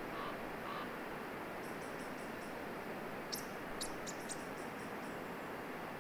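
Small birds calling: short runs of very high, thin chips, about five a second, loudest just past the middle, with a few lower short notes near the start. A steady rushing noise lies under them throughout.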